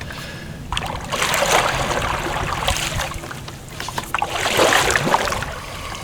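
Kayak paddle strokes in the water: two long swishing sweeps, one about a second in and another about four seconds in, with splashing and dripping water.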